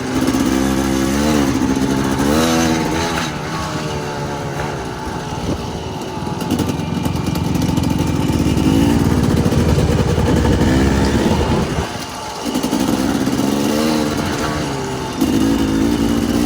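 Dirt bike engine revving, its pitch climbing and dropping again and again as the throttle is worked through the gears.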